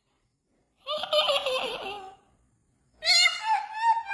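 Pet talking bird chattering: two pitched calls that bend up and down, one about a second in and a longer one starting near the end.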